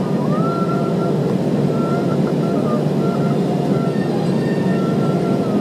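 Airbus A321-200 cabin noise on the ground after landing: a steady rumble of engines and air conditioning, with a thin whine that wavers and steps up and down in pitch.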